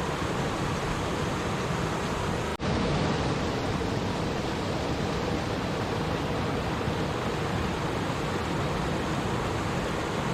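Steady rushing of a flowing stream, an even, dense water noise with no rhythm. It cuts out for an instant about two and a half seconds in.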